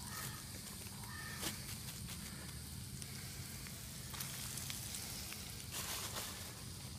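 Floured country fried steaks frying in oil in a cast iron skillet: a steady sizzle.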